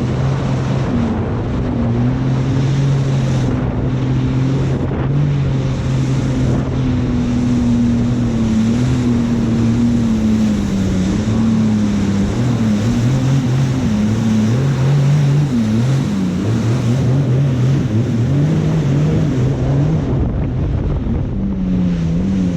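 Jet ski engine running, its pitch wavering up and down with the throttle, over rushing water and wind buffeting the microphone.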